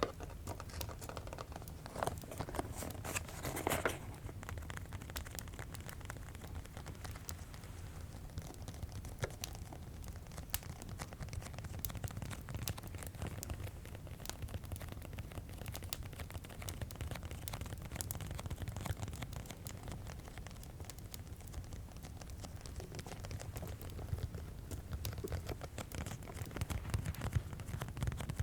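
Fireplace crackling: a steady low rumble with scattered small crackles and clicks, mixed with light ASMR tapping. Two louder rustling taps come about two and four seconds in.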